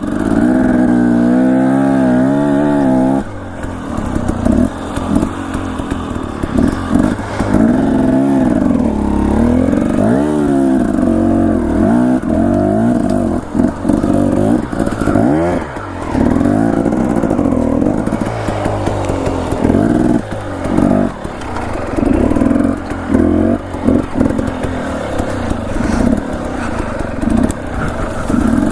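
Dirt bike engine revving up and down over and over as the throttle is opened and chopped at low speed, with brief dips where it is rolled off.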